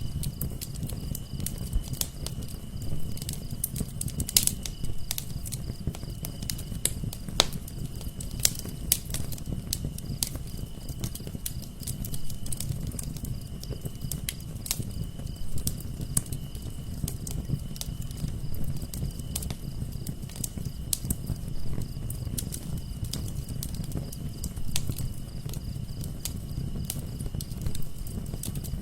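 Wood fire burning in a fireplace: dense, irregular crackling and popping over a steady low rumble of the flames, with a faint steady high-pitched tone underneath.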